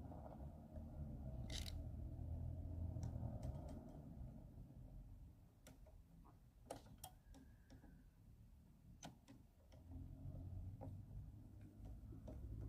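Scattered light clicks and taps of small parts and hand tools being handled while a lawnmower carburetor and its fuel line are refitted, over a low rumble.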